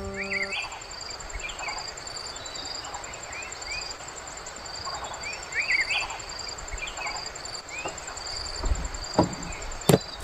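Outdoor insect chorus: a steady, fast pulsing trill with a shorter chirp repeating about every 0.7 s, and small birds chirping now and then. A few soft knocks come near the end, then one sharp click.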